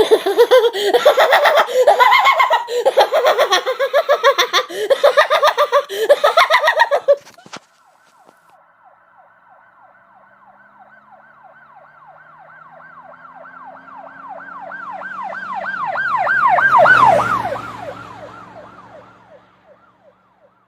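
A person laughing maniacally for about seven seconds. Then an emergency-vehicle siren with a rapid, repeating wail comes in faintly, grows louder to a peak near the end, and fades away as it passes, its low rumble dropping in pitch.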